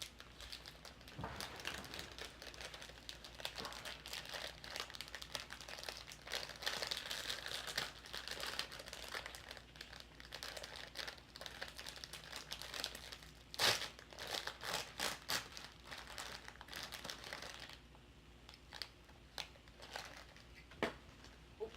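Hot Wheels Mystery Models blind-bag packaging crinkled and torn open by hand, a steady crackling with a sharp snap about two-thirds of the way through, then a few scattered clicks near the end as the toy car is handled.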